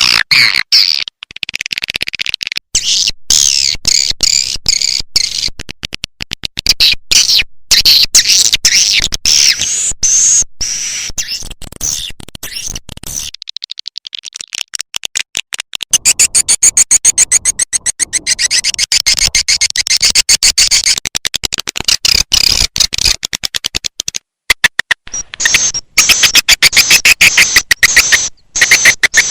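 Swiftlet calling (lure) recording: dense, rapid high chirps and clicking twitters of swiftlets, packed tightly together, with a brief lull a little before the middle.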